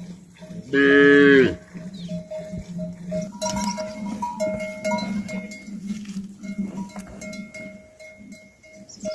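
Livestock bells clinking on and off, with one loud moo lasting under a second about a second in.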